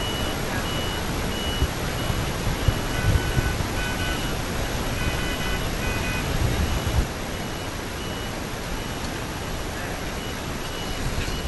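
Steady rushing machine or wind noise with a short high electronic beep repeating a little faster than once a second, at times two or three tones together. A few low thumps fall in the first half.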